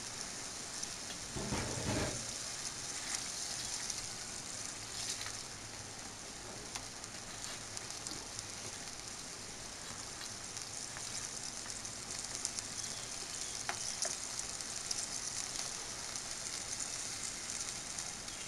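Onion paste and ginger-garlic paste sizzling steadily in hot oil in a pot while being stirred and fried, with a dull thump about a second and a half in and a few light clicks of the spoon against the pot.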